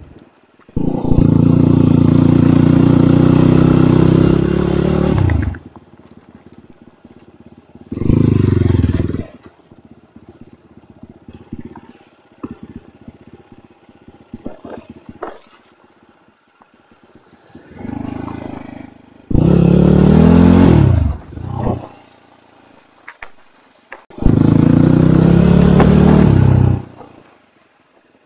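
Enduro dirt-bike engines revving hard in four loud bursts, each held a few seconds and then dropping away as the throttle closes, with a shorter, quieter burst just before the third. Rattling and knocking from the bikes on rough ground fills the gaps between.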